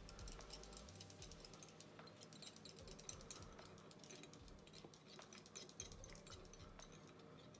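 Faint, rapid, irregular clicking and ticking of 140-denier tying thread being wound from a bobbin onto a curved shrimp hook held in a fly-tying vise, over a low steady hum.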